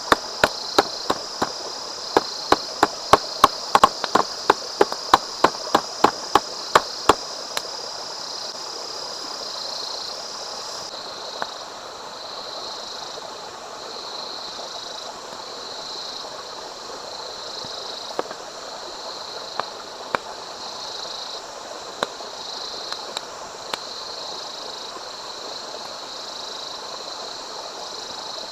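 Knife chopping on a cutting board, about three quick strokes a second, stopping after about seven seconds. Outdoor ambience runs under it: a steady high insect buzz that turns pulsing about eleven seconds in, over a light rushing haze, with a few single knocks later on.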